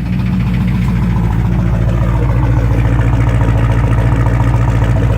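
Chrysler 360 V8 in a Plymouth Duster idling steadily with an even, rapid pulse, an engine the owner suspects of head gasket failure or rod knock.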